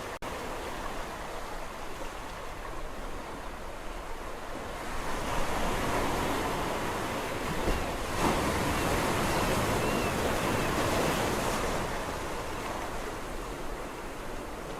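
Sea waves washing onto the shore. A wave builds about a third of the way in, stays louder for several seconds, then recedes back to a steady wash.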